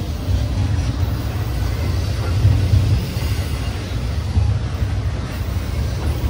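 Low, steady rumble of a passing train.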